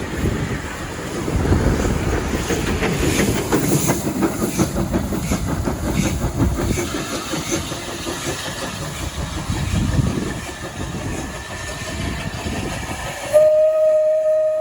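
A train running by with rumble and rapid wheel clatter over the rail joints. Near the end, a single steady whistle starts suddenly and keeps sounding.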